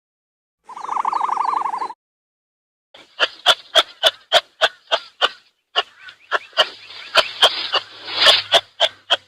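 Animal calls: a short fluttering note about a second long, then from about three seconds in a run of sharp, quick chirps, about three or four a second.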